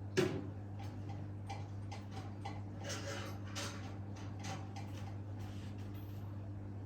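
Irregular light clicks and knocks of coffee and tea machine parts being handled during cleaning, the sharpest just after the start, over a steady low hum.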